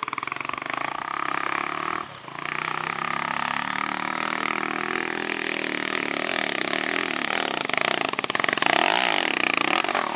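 Honda XR250 Tornado trail bike's single-cylinder four-stroke engine revving hard on a dirt hill climb, dipping briefly about two seconds in, then its note rising and falling repeatedly near the end as the throttle is worked.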